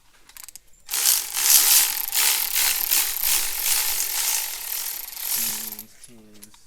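Ratchet wrench clattering fast as it spins a bolt out of the engine, for about five seconds starting a second in.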